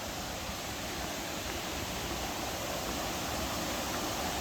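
Steady rushing of a mountain creek.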